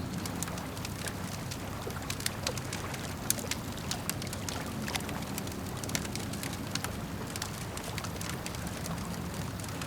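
Campfire crackling and popping, with many sharp snaps of burning wood scattered over a steady low rumble of flame and lapping lake water.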